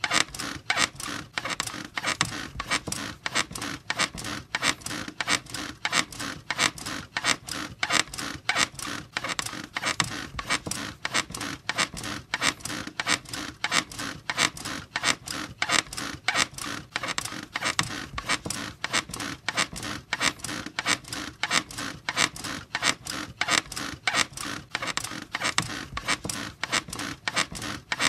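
Bed creaking and squeaking over and over in a quick, even rhythm, as if someone is rocking or bouncing on it.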